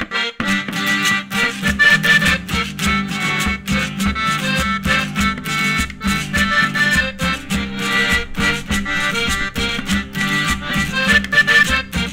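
Traditional Andean band from Cumbal playing the instrumental opening of a song: a melody over strings and a steady, even beat, with no singing yet.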